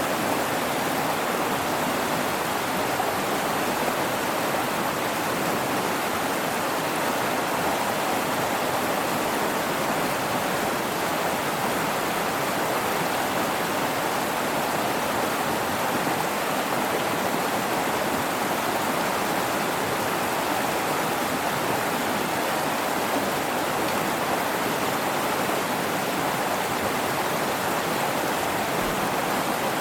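A mountain river rushing steadily, a constant even wash of flowing water.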